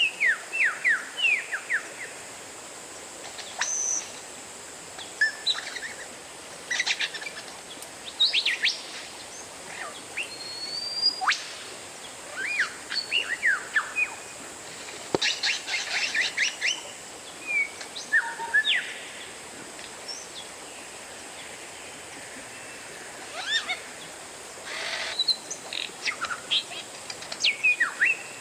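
Oriental magpie-robin singing: bursts of quick, sweeping whistled notes and chirps, separated by short pauses.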